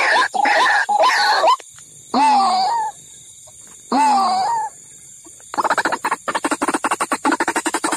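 White-breasted waterhen calls played as a bird-trapping lure. Short calls repeat quickly at first, then come two longer calls a couple of seconds apart, and from about five and a half seconds a fast, even run of rapid pulses.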